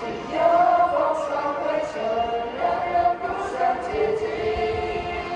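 A group of voices singing a song together, choir-style, in long held notes.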